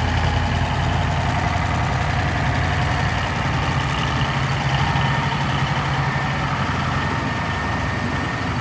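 A 1975 Versatile 900 4WD tractor's Cummins 903 V8 diesel engine idling steadily.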